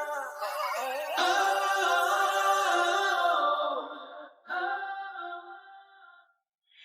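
Unaccompanied singing in long held notes: one phrase, then a second that fades away shortly before the end.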